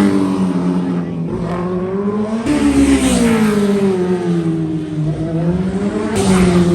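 Racing motorcycle engine running hard at high revs. The pitch sinks, jumps up sharply about two and a half seconds in, sinks again, and rises again near the end.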